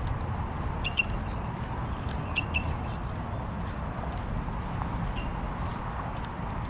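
A songbird calling three times, about a second in, near three seconds and near six seconds: each phrase is a short high note sliding down into a whistle. A steady low rumble runs underneath.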